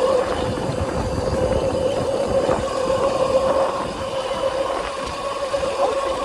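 2000 W electric bike's motor whining at a steady pitch while riding, with a rough low rumble underneath.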